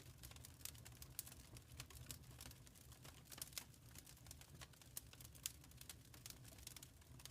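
Fireplace fire crackling softly: many small irregular pops and snaps over a steady low rumble.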